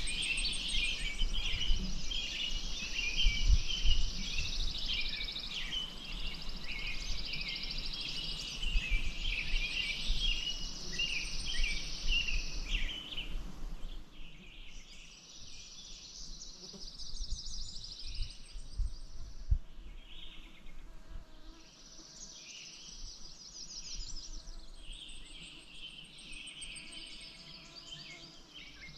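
Songbirds singing, with many overlapping chirps and trilled songs that thin out somewhat in the second half. A low rumble with scattered low thumps sits beneath them, mostly in the first half.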